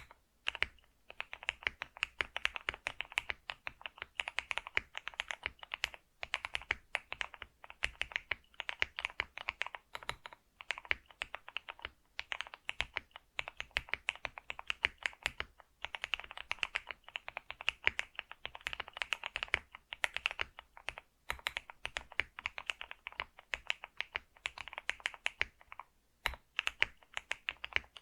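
Continuous typing on a computer keyboard: a rapid run of key clicks in bursts, with a few short pauses between them.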